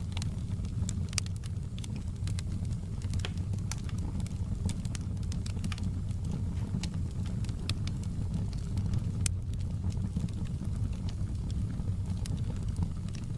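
Wood fire crackling: irregular sharp snaps and pops, several a second at times, over a steady low rumble of the burning fire.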